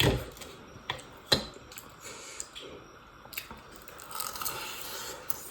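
Eating sounds: chewing with a few sharp clicks, the strongest in the first second and a half.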